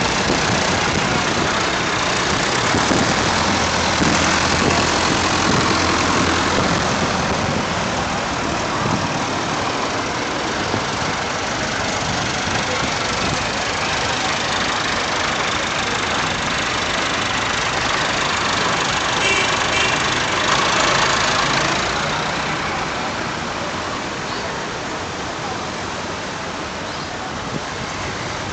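Vintage tractor engines running steadily at low speed.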